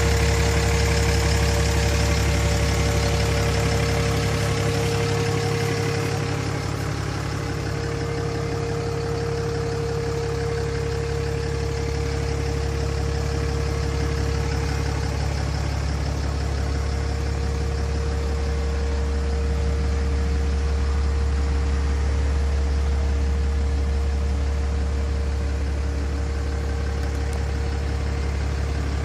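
Cummins turbo-diesel engine of a 2008 Ram 2500, a 6.7-litre inline six, idling steadily. A steady whine sits over it and fades out about halfway through.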